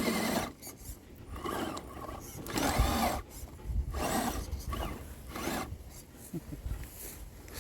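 Element Bushido RC rock crawler driven in short bursts, its drivetrain whirring and its tyres scraping and grinding over cement and rock, about five bursts.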